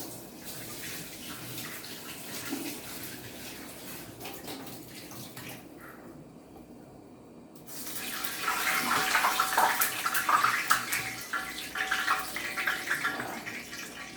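Water running from a kitchen tap, louder from about eight seconds in.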